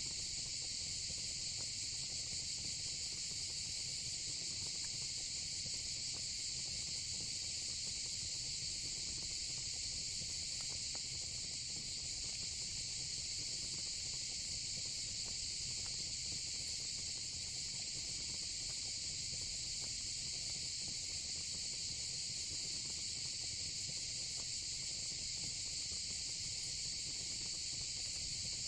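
Steady, unbroken chorus of crickets and cicadas, a high even shrilling. Beneath it a low fire rumble with occasional faint crackles.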